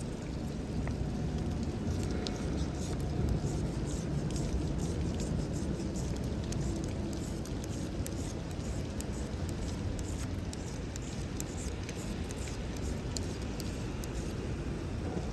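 Wood campfire crackling with many small irregular pops, over a steady low rumble.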